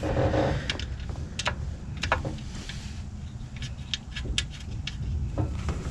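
Irregular light clicks and clinks of hand tools and metal parts being handled during engine work, over a low steady background rumble.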